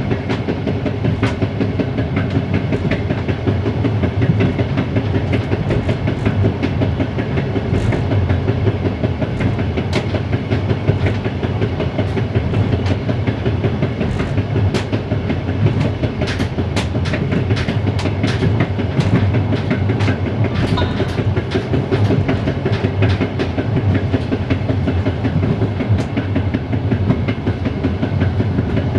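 Passenger train running along the line, heard from aboard: steady wheel-on-rail running noise, with a run of sharp clicks over rail joints in the middle part.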